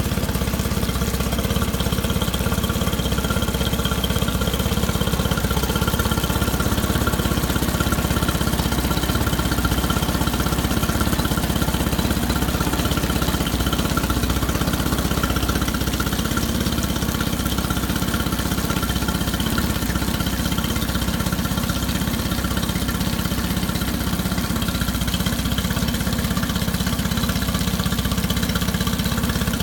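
Tohatsu 20 HP fuel-injected four-stroke outboard motor idling steadily and evenly.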